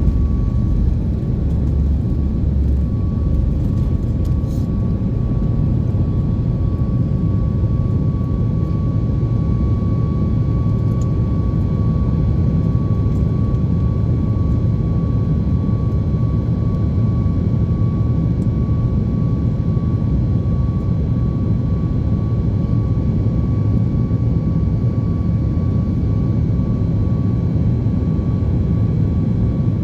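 Boeing 737 MAX 8's CFM LEAP-1B jet engines running steadily under takeoff power: a dense, even rumble with a steady thin whine above it.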